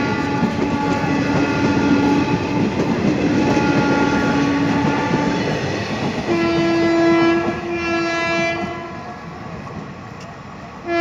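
Train horns blowing long blasts over the rumble and clatter of Indian Railways passenger coaches rolling past. A lower horn sounds through the first half. As the last coach goes by, the rolling noise fades and a higher-pitched horn sounds twice.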